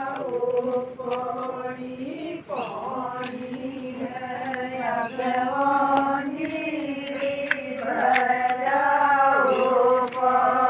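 A group of women singing a Gujjar wedding folk song together in long, drawn-out unison notes that slide slowly in pitch, chant-like and unaccompanied.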